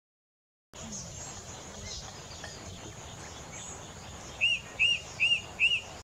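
Field ambience cuts in abruptly under a second in, with faint scattered high chirps of small birds. Near the end a bird gives four loud, clear, arched notes, evenly spaced about two and a half a second.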